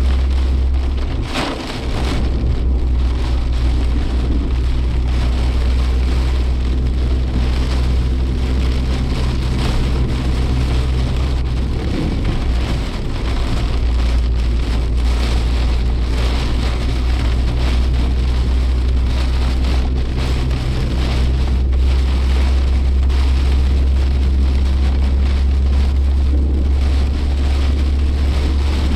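Cabin sound of a Suzuki Jimny Sierra on the move: its engine drones steadily while rain patters on the roof and windscreen. The engine note dips briefly about a second in and again about twelve seconds in.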